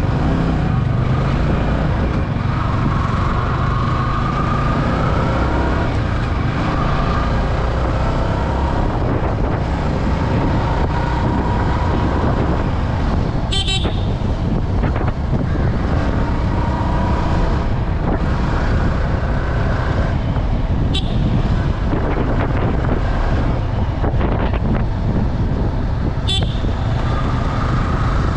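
Yamaha R15 V3's 155 cc single-cylinder engine running steadily at cruising speed, with heavy steady road and air noise. There are three short clicks, at about 14, 21 and 26 seconds.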